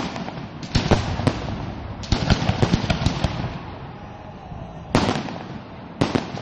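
Fireworks going off: a quick run of sharp bangs and crackling bursts, with quieter crackle in between, and two single loud bangs about five and six seconds in.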